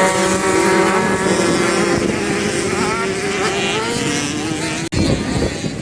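Motocross bike engine running at fairly steady revs, its pitch wavering slightly up and down. There is a split-second break in the sound about five seconds in.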